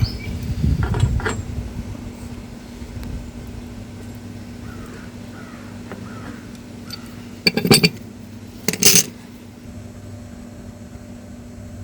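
Metal pipe fittings and a pipe wrench being handled: low fumbling and scraping at first, then two sharp metallic clanks about a second apart about two-thirds of the way through.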